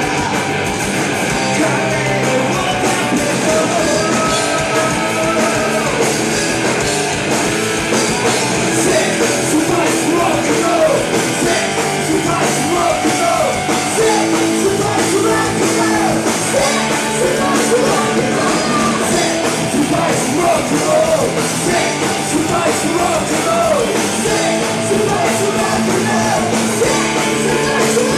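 Live rock band playing loud and steady, with distorted electric guitars, bass and drums, and a singer's voice over them.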